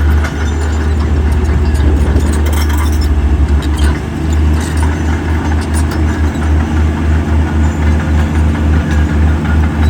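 Diesel engine of a heavy earthmoving machine running with a deep low rumble that pulses evenly through the second half, with a few metallic clanks a few seconds in.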